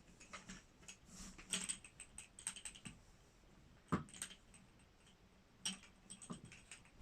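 Soft, irregular taps, clicks and rustles of something being handled, with a sharper knock about four seconds in.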